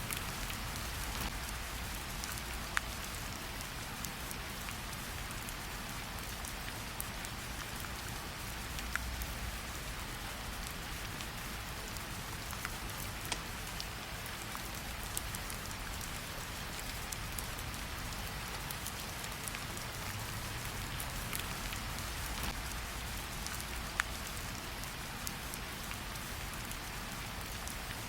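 Steady rain falling as an even hiss over a low rumble, with a few sharp clicks standing out now and then.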